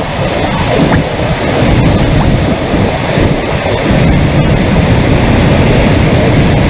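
Loud, steady rush of floodwater, with wind buffeting the microphone.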